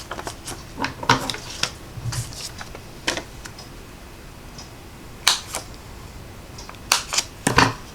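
Irregular light taps and clicks of fingers handling cardstock and pressing adhesive foam dimensionals onto it on a tabletop, about ten in all, the sharpest a little past the middle and near the end.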